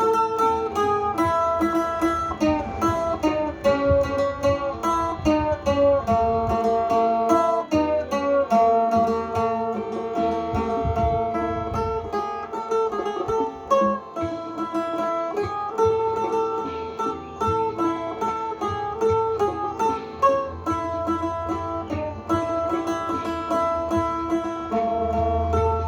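Seung, the northern Thai plucked lute, playing a melody in quick runs of plucked notes.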